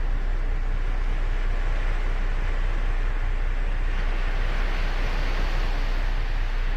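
Ocean surf on a sandy beach: a steady rush of breaking waves, with one wave's wash swelling louder about four seconds in.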